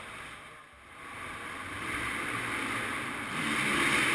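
Motocross bike engine heard across an indoor off-road hall, echoing off the building. It drops away briefly under a second in, then builds louder toward the end.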